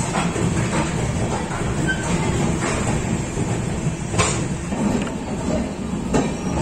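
Passenger train running, heard from inside a coach by a barred window: a steady rumble of the running gear, with a few sharp clacks scattered through it.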